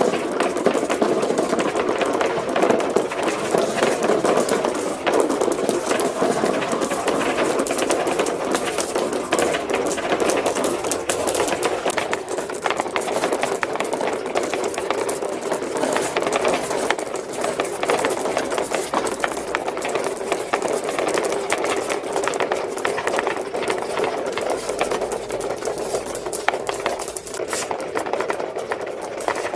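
Many marbles rolling and clattering along plastic marble-run ramps: a steady, dense rattle of small clicks and knocks.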